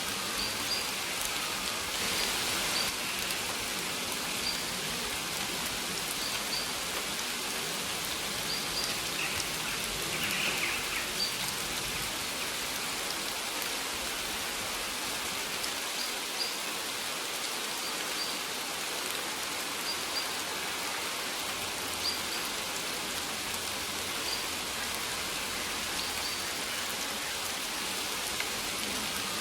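Steady rainfall on surfaces, with short high bird chirps recurring every second or two.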